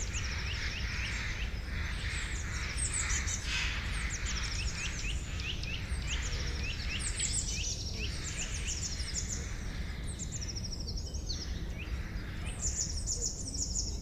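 Several songbirds chirping and singing, with quick series of short, high notes overlapping, over a steady low rumble.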